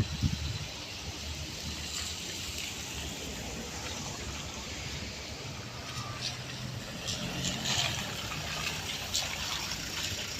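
Rainy street ambience: a steady hiss of rain and wet traffic with the low hum of vehicle engines, and scattered light ticks of drops from about six seconds in.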